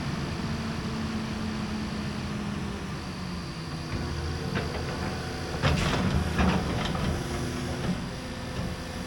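Large excavator's diesel engine running steadily at idle, heard from the cab. A cluster of knocks and rattles comes from about five and a half to seven seconds in.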